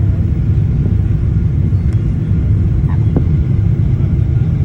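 Steady, loud low rumble of an airliner coming in to land.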